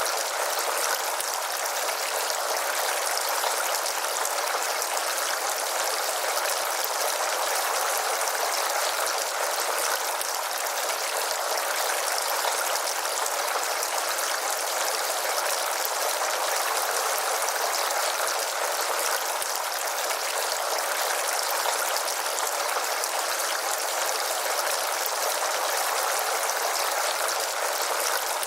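Water from a four-tier resin fountain spilling over its tiers and splashing into the basins below, a steady even splashing that never changes.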